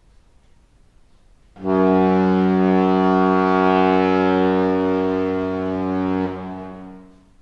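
A ship's horn sounding one long, steady, low blast. It starts a second and a half in and dies away near the end.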